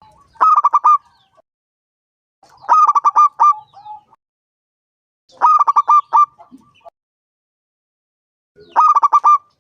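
Zebra dove (perkutut) cooing: four phrases about three seconds apart, each a quick run of five or six clipped coos.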